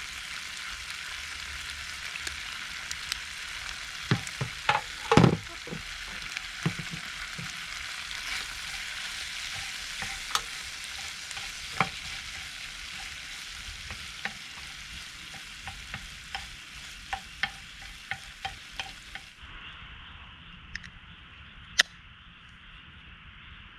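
Food sizzling in a hot pan while being stirred, with frequent clicks and knocks of a utensil against the pan, several louder ones about four to five seconds in. Near the end the hiss drops away suddenly, leaving quieter sizzling and a few clicks.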